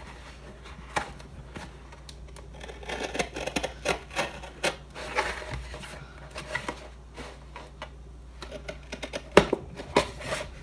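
Craft knife cutting and scraping along the scored lines of a cardboard drink carton: irregular scratchy scrapes and clicks, with a couple of sharper knocks near the end.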